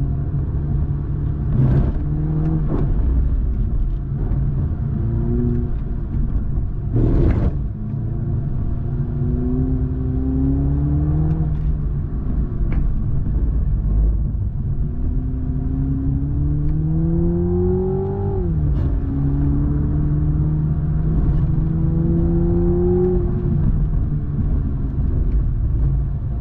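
Toyota Supra 2.0's turbocharged four-cylinder engine under load, climbing in pitch and dropping back at each upshift, several times over, above a steady low road and tyre rumble. A few sharp knocks stand out in the first eight seconds.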